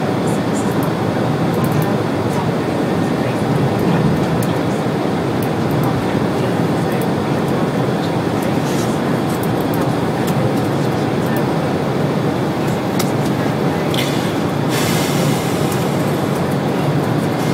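Steady running noise inside an express passenger train carriage travelling at speed: a constant rumble of wheels on track with hiss on top. A short rush of hiss comes near the end.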